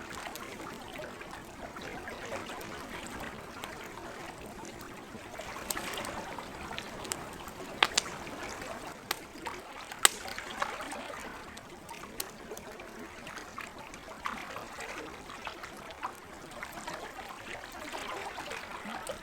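Campfire crackling, with scattered sharp pops, the loudest about eight and ten seconds in, over a steady wash of lake water lapping and trickling.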